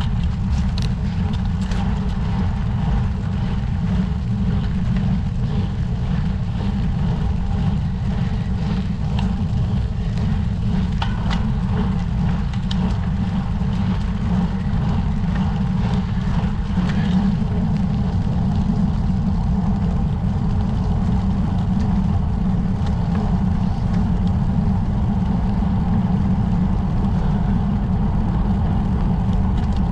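Steady low rumble of wind rushing over the microphone of a camera on a road bicycle being ridden, with a few faint ticks in the first half.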